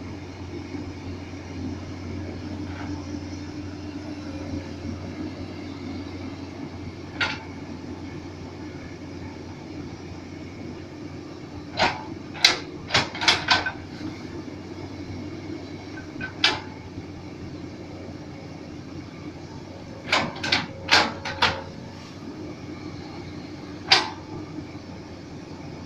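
Komatsu PC200 excavator working, its diesel engine running steadily under sharp metallic clanks from the digging gear. The clanks come singly and in quick runs of four or five, several times over.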